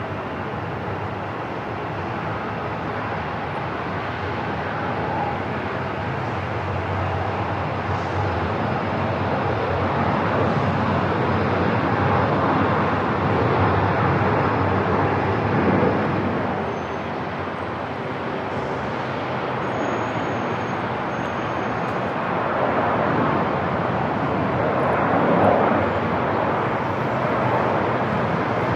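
Airport ambience: a steady, dense roar of aircraft engine noise that swells about halfway through and again near the end.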